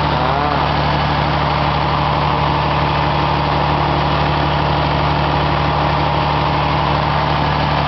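Engine running steadily on biogas fuel, a constant hum with no change in speed.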